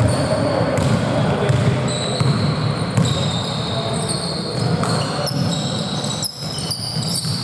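Basketball game play on an indoor court: many short, high sneaker squeaks on the floor over the thuds of a ball bouncing, with players' voices in the background and the hall echoing.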